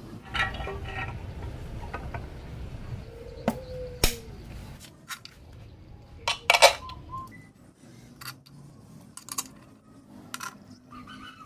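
Scattered sharp metallic clinks and knocks, like tools or engine parts being handled and set down. The loudest is a quick cluster of strikes about six and a half seconds in, and a low rumble underneath stops about five seconds in.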